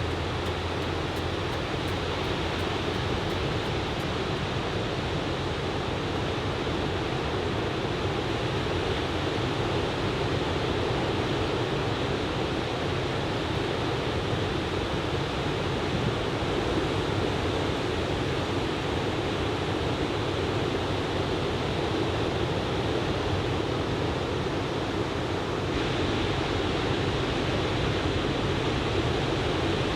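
Ocean waves breaking on a beach in typhoon swell: a continuous, even wash of surf with no single break standing out.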